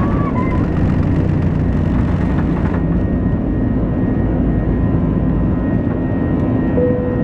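Airbus A320's CFM56 jet engines running, heard from inside the cabin as a steady, loud rumble with a thin, high whine over it. The hiss in the highest range drops away about three seconds in.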